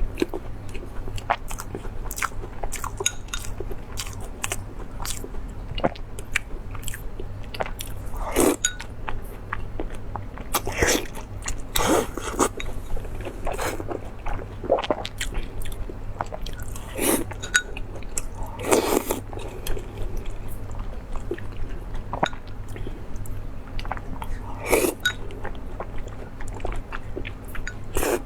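Close-miked eating sounds: a person chewing and biting into spicy seafood, with irregular crunches and smacks and a handful of louder bites.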